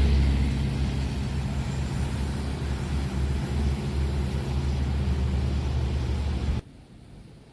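A train passing at speed: a steady low engine drone over a rumbling, rushing noise, which cuts off abruptly about six and a half seconds in.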